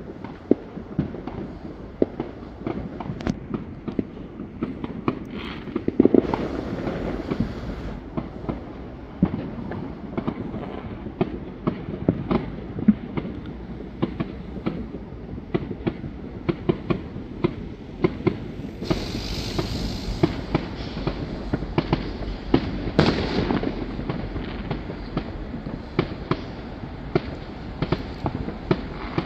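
Fireworks going off all around: a steady patter of distant bangs and pops, with louder crackling bursts about six seconds in, around nineteen seconds and about twenty-three seconds in.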